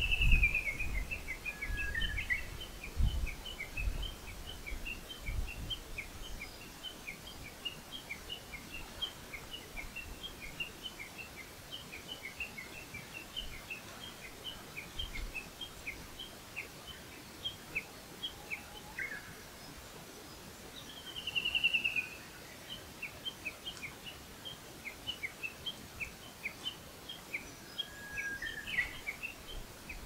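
Wild birdsong: a fast falling trill followed by a long run of short, quick chirps, the phrase starting again about twenty seconds later. Low thumps of wind or mic handling in the first few seconds.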